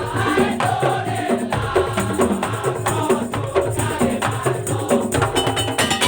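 Daul (tongtong) ensemble playing: a fast, steady rhythm of drums and struck wooden and metal percussion with a melody over it.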